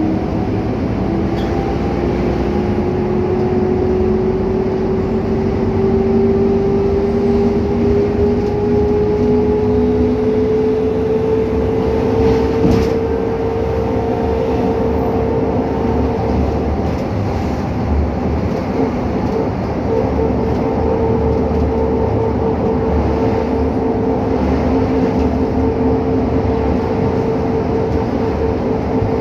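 An articulated Scania K310UA city bus under way: engine and road rumble, with a whining tone that rises in pitch over the first half as the bus gathers speed, then holds steady.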